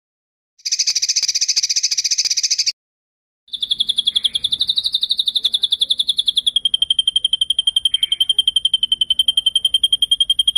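A songbird's rapid, evenly pulsed trill. A short trill comes first, and after a brief pause a long, steady trill at one high pitch follows; its pitch drops slightly about halfway through.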